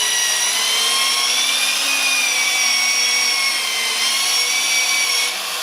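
Power sander working on turned black heart sassafras and paua shell, its motor giving a steady high whine that wavers in pitch, over a rushing sanding noise. The whine cuts out near the end.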